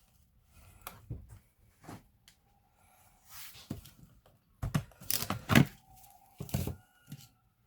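Handling noises from working on a laptop: scattered clicks, knocks and short rustles, with the loudest cluster a little past the middle.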